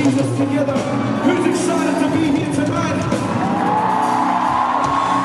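Live worship band music playing steadily, with a long held high note from about three seconds in and some whoops from the crowd.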